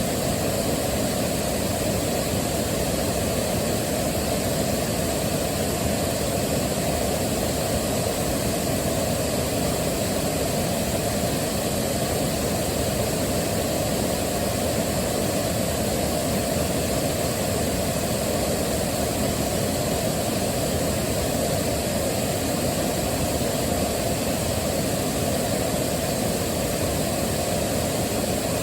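Waterfall: steady rushing water, an even, unbroken noise weighted toward the low end.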